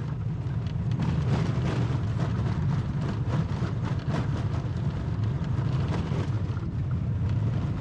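A car driving on a gravel road, heard from inside the cabin: a steady low road rumble with frequent small clicks and rattles from gravel under the tyres.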